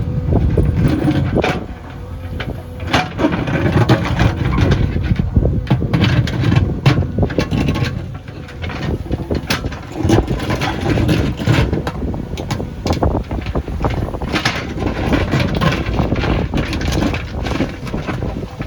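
JCB backhoe loader's diesel engine running under load while it works soil, with frequent short knocks and clatter over the rumble.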